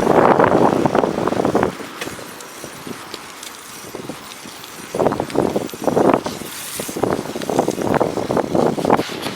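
Strong wind gusting over the microphone during a bicycle ride on snow, loud at first, dropping off after about a second and a half, then returning in a run of rough gusts from about five seconds in.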